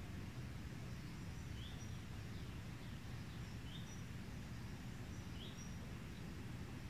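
Outdoor ambience: a steady low background rumble, with short high bird chirps every couple of seconds.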